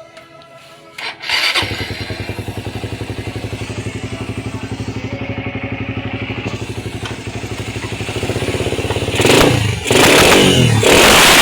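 Suzuki Raider 150 carburetted single-cylinder engine starting about a second in and idling with an even, rapid beat, then revved several times, loud, near the end.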